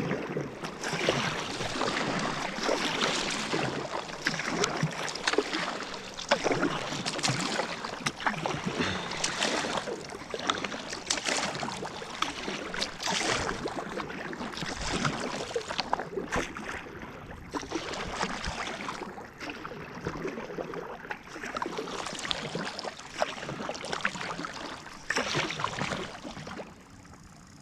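Kayak paddle strokes in lake water: repeated irregular splashes and trickling drips from the blades. The sound eases off shortly before the end.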